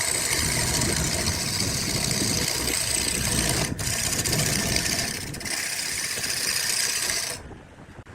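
A workshop power tool or machine running steadily, with two brief dips in the sound about halfway through, then stopping abruptly near the end.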